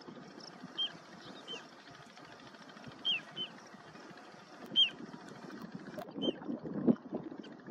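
Bird chirps: about six brief, high notes, each sliding quickly downward, the loudest just before five seconds in, over a low rumble that grows near the end.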